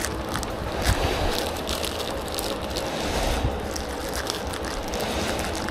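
Rapid metallic clicking and ratcheting from hand tools working on the trolley's steel frame, the kind of sound made while fitting castors.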